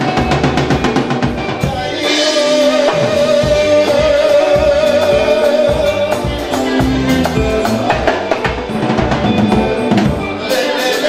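Live fusion band playing an instrumental passage, the drum kit busy with snare, rimshots and bass drum. A long held note sounds over it from about two to six seconds in.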